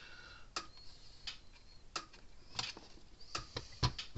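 Irregular small clicks and taps of hands working on the fence charger's parts and wiring, such as wire connectors and metal pieces being handled, with a few faint squeaks.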